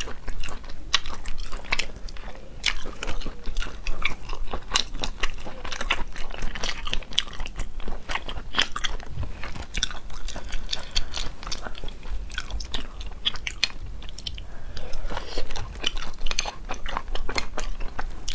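Close-miked chewing and biting of braised sea snail meat, a dense uneven run of short mouth clicks and crunches.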